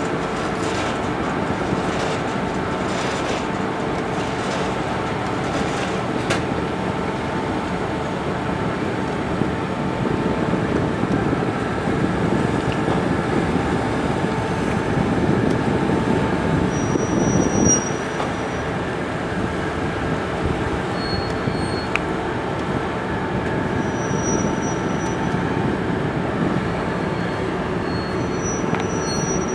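A boat's engine running steadily, a constant drone with even noise, while the boat churns up the mud to deepen the river mouth. A few short, faint high whistles sound in the second half.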